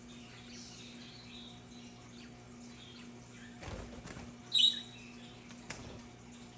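Budgerigars chattering softly, with one loud sharp chirp about four and a half seconds in, just after a dull thump. A steady low hum runs underneath.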